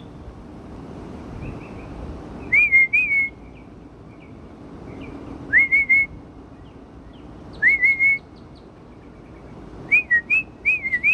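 A person whistling short groups of two or three clear notes, several swooping up at the start, repeated about every two to three seconds as a call to birds. Faint, higher bird chirps come in the gaps between.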